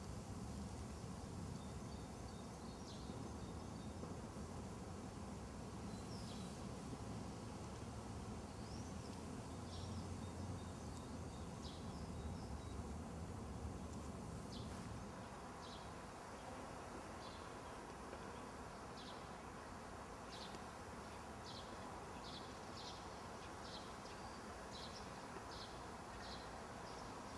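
Outdoor woodland ambience: small birds chirping with short, high calls that come more often in the second half, over a low steady hum that drops about halfway through.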